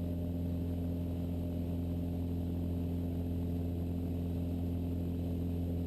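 Steady drone of the Mooney M20E's four-cylinder Lycoming engine and propeller in the climb, a constant low hum with several steady tones.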